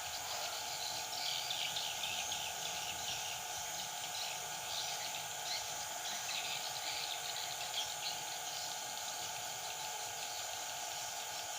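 Yellow-vented bulbuls (trucukan) calling in repeated bursts of short, high notes, the female calling to an approaching male, over a steady drone of insects.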